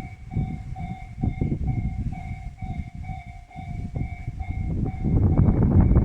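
Strong wind buffeting the microphone in gusts, with an electronic warning bell ringing steadily about twice a second. The rumble swells about five seconds in.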